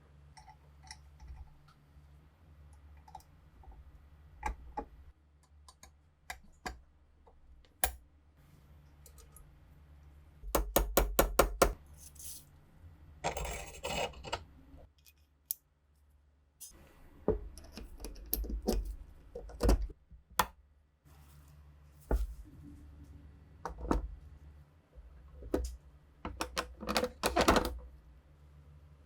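Clicks, taps and knocks of small metal gun parts and tools being handled on a workbench, irregular throughout, with a quick run of about eight taps a little past ten seconds in and a short rasping noise a few seconds later.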